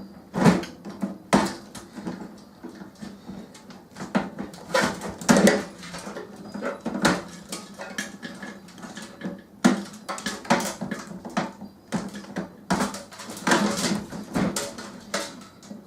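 Irregular clatter, knocks and clicks of metal and plastic microwave parts being handled and pulled apart by hand.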